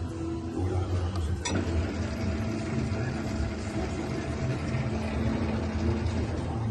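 SCM S50 four-knife thicknesser running with a steady low hum. About one and a half seconds in there is a click, and the running noise then grows fuller and stays steady.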